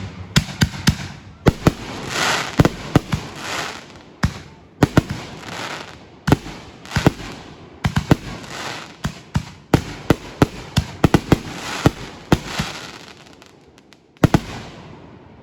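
Fireworks going off in quick succession: dozens of sharp bangs with crackling between them, and a last loud bang near the end.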